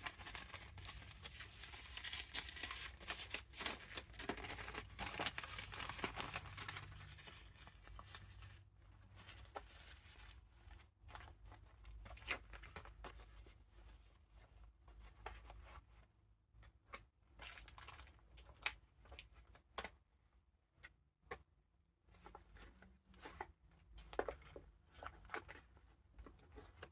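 Paper pages and ephemera of a handmade junk journal rustling and crinkling as they are turned and handled. The rustling is dense for the first several seconds, then thins to scattered soft rustles and taps.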